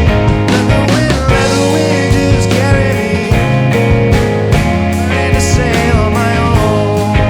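Indie rock band playing: electric guitars over bass and drum kit, with pitch bends on a lead line.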